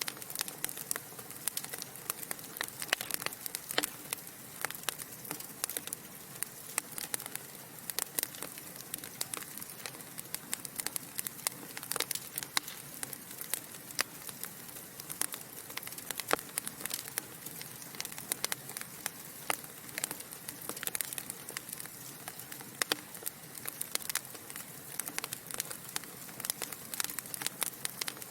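Wood fire crackling in a fireplace: a steady hiss with frequent sharp, irregular pops and snaps from the burning logs.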